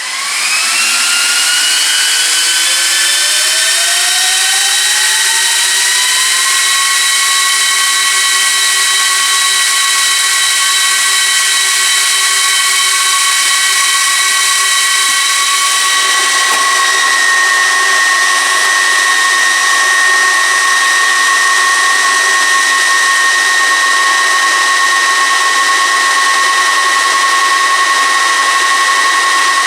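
Cooling fans of a Gigabyte R180-F34 1U rack server spinning up at power-on: a multi-tone whine that rises in pitch over the first few seconds, then holds a loud, steady high whine at full speed, the server running its fans flat out while it POSTs. Partway through, some tones drop out and one grows stronger as the fan speeds shift.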